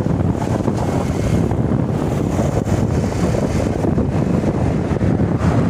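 Wind buffeting the microphone on a moving motorbike: a loud, steady rushing rumble with no clear engine note.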